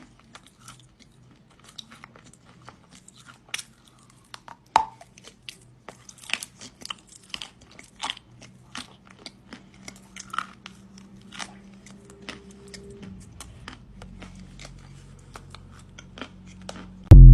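Close-miked crunching and chewing of dry kaolin clay: a run of separate crisp crunches of varying loudness. It ends in a sudden, very loud low burst.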